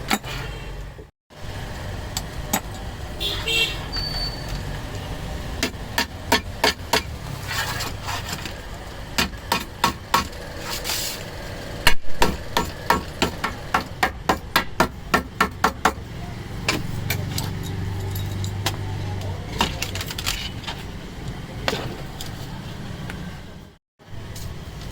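Hammer strikes in a gasket workshop: sharp knocks at uneven intervals, with a steady run of about two to three blows a second in the middle, over a low steady rumble.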